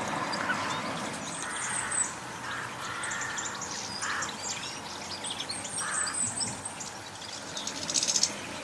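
Garden birds calling: a busy mix of small-bird chirps and twitters, with several short, harsh calls in between.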